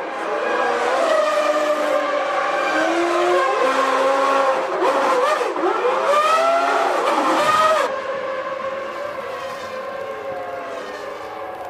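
Several Formula One cars' high-revving engines going past, their pitch sweeping up and down sharply through gear changes. The sound is loud for about the first eight seconds, then drops off as the cars move away.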